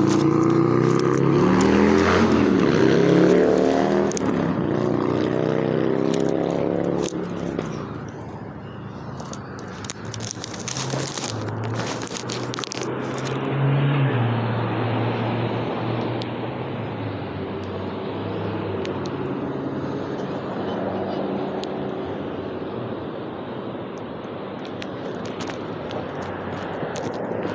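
Motor vehicle engine, its pitch rising over the first few seconds and then falling away. After that comes a steadier, lower engine hum with a few light clicks.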